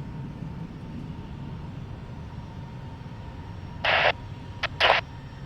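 Steady low rumble of jet aircraft engines at the airport, with two short bursts of radio static at about four and five seconds in.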